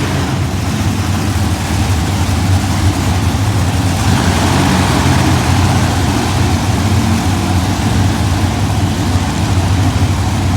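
Monster truck engine running steadily with a deep, low hum, the noise growing a little about four seconds in.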